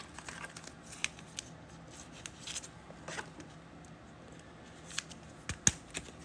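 Trading cards and plastic card sleeves being handled on a table: scattered light clicks and short rustles, with one sharper click near the end.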